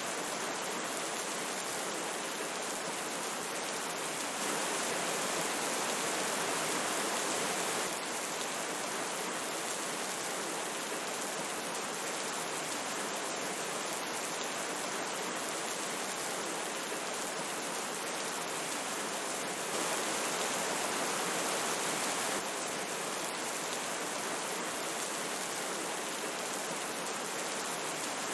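Steady rushing noise of a flowing river and falling rain, with no pauses, swelling a little louder twice for a few seconds.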